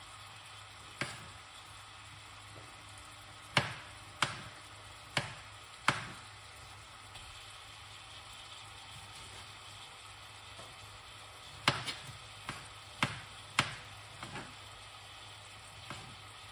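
Onions, carrots and garlic sizzling gently in an aluminium pot on an electric hotplate, a steady low hiss. It is broken by scattered sharp kitchen knocks, bunched in two clusters about four to six seconds in and twelve to fourteen seconds in.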